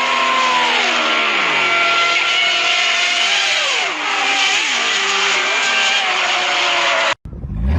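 Vehicle engine running loud and high over road and wind noise, its pitch dropping in steps several times as it slows. Near the end the sound cuts off abruptly and another engine comes in, rising in pitch as it accelerates.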